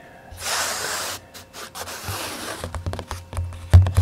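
A breathy whispered hiss, then fast soft ASMR tapping, many light taps a second, with one heavier knock near the end.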